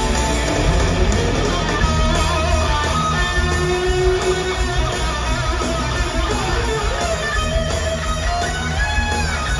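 Heavy metal music: an instrumental passage of electric guitar lead lines, some bending in pitch near the end, over bass guitar and drums.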